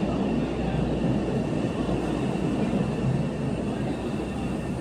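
A train running: a steady rumble with a faint, steady high whine over it.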